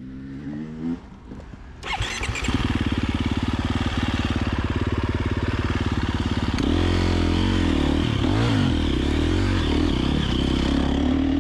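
KTM 350XC-F single-cylinder four-stroke dirt bike engine starting up about two seconds in and then running at a steady idle. From about six and a half seconds the throttle is blipped, and the engine note rises and falls.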